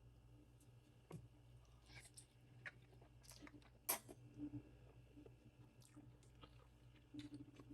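Faint close-up chewing and mouth sounds of a person eating, with scattered small clicks and crunches and one sharp click about four seconds in.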